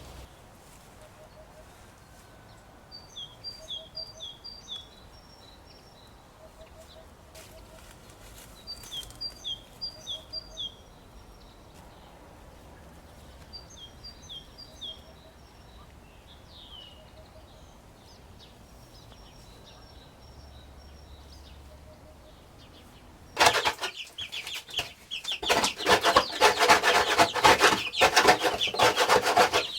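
A small bird singing short phrases of quick high notes three times, with faint lower calls, then, about three-quarters of the way in, loud close chicken clucking and commotion that runs on to the end.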